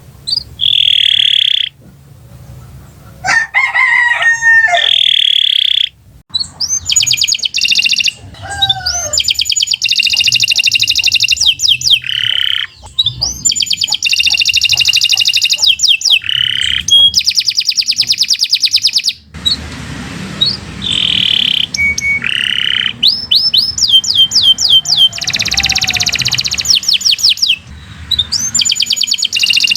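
Domestic canary singing a long, varied song of fast trills, rolls and high chirps, in phrases broken by brief pauses.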